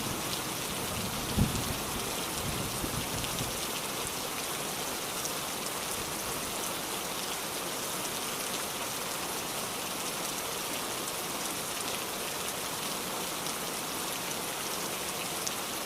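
Steady rain hiss of a heavy downpour. A low rumble of thunder, with one deeper thud, dies away in the first few seconds.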